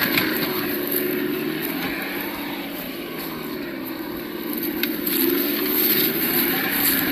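Absima Yucatan 1:8 RC crawler running, its sound module playing a simulated engine note that dips in the middle and picks up again about five seconds in.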